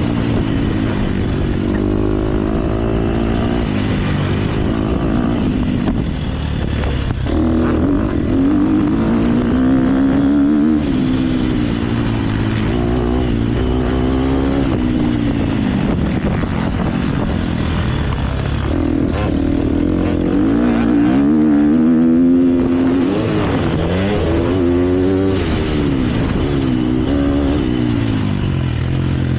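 KTM motocross bike engine being ridden hard, its pitch rising and falling continually with throttle and gear changes.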